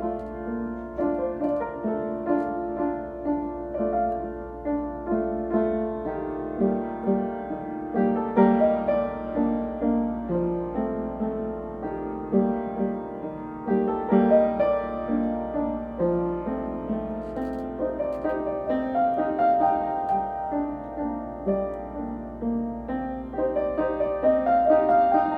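Solo piano playing a flowing piece, with a steady stream of separately struck notes and chords, over a faint low hum.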